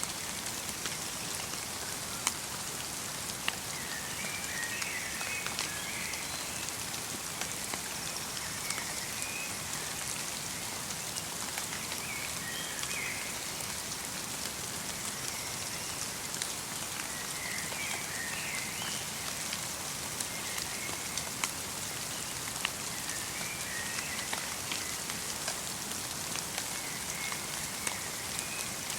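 Light rain falling in a forest, with fine drops ticking on surfaces. A small bird twitters in short chirping phrases every few seconds.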